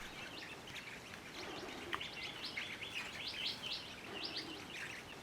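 A flock of mulga parrots chattering: many short, high chirps overlapping, fairly faint, with a single sharp click about two seconds in.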